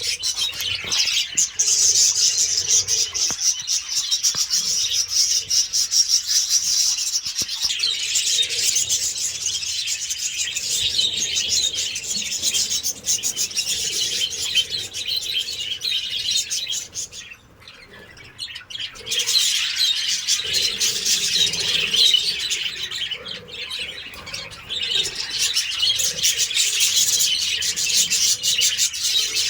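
Parrots chattering and chirping continuously in a dense mix of calls, with a short lull a little past halfway.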